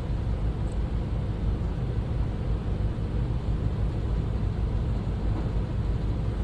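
Steady low rumble of a running motor, even throughout with no distinct strokes or impacts.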